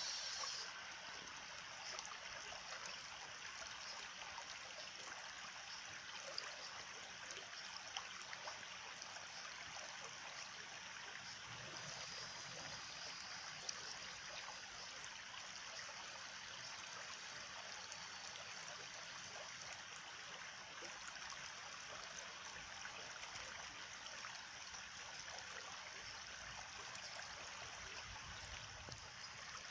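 Stream water trickling steadily, with a few faint ticks here and there.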